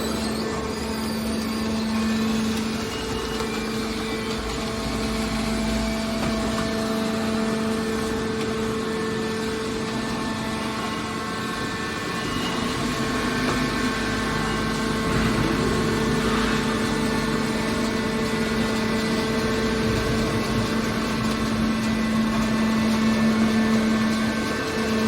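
Hydraulic scrap-metal baler running, a steady machine hum from its motor and pump that holds without a break.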